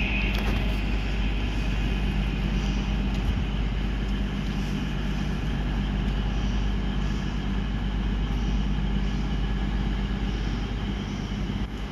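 A train running past: a steady low hum over continuous running noise, with a faint repeating beat about every two-thirds of a second.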